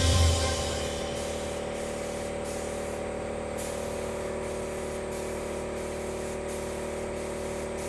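Compressed-air paint spray gun spraying clear coat with a steady hiss that dips briefly many times as the trigger is eased between passes.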